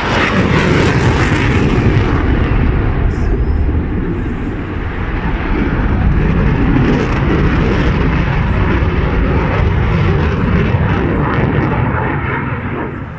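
Loud aircraft engine noise, steady and dense, dipping slightly about four seconds in and fading near the end.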